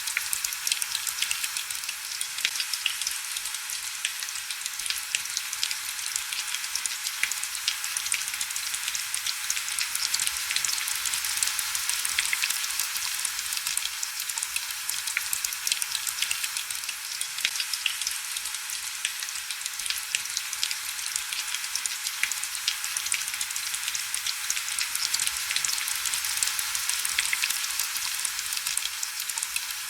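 Steady heavy rain: a dense, even hiss thick with sharp ticks of individual drops, with almost no low rumble.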